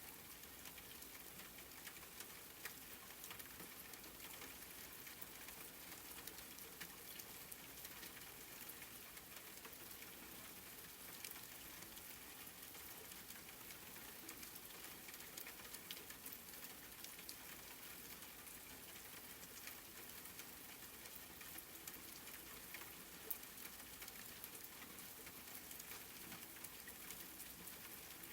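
Quiet, steady rain: an even hiss of falling drops with fine pattering ticks, and now and then a sharper single drop.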